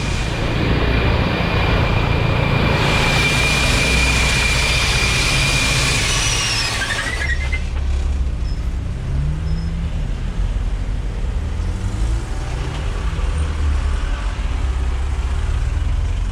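Intercity coach bus engine running under way, with a steady high whine and hiss over the first six or seven seconds that cut off suddenly, leaving the engine's low rumble rising and falling. It is the strange, ugly engine noise the driver is trying to place.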